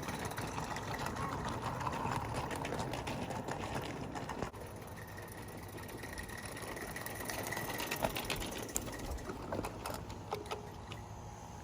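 Mamod Mk III live steam locomotive running on the track with its rail cars: a fast, even chuffing and clicking with a rattle of small wheels and cars. It is louder for the first few seconds, then drops suddenly in level about four seconds in.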